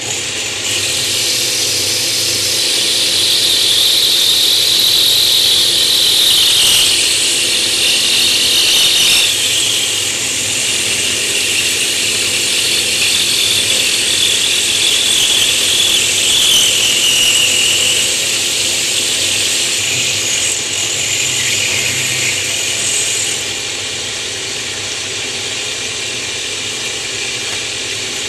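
Router with a diamond bit grinding a recess into the back of a natural stone tile: a steady high whine with a screech that wavers and drops in pitch as the bit is moved back and forth. The cutting eases off somewhat near the end.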